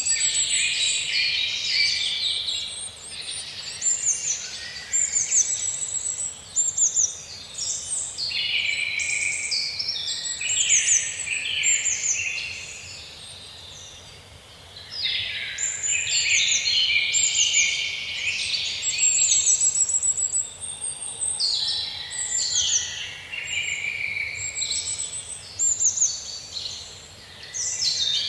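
A dense chorus of wild birds singing: many overlapping high chirps, trills and whistled sweeps, easing into a brief lull about halfway through before building again.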